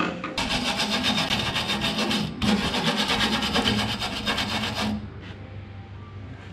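A tool rasping against the rough metal edge of the fuel-filler opening cut in a truck's flatbed, in two stretches of about two seconds each with a brief pause between, stopping about five seconds in.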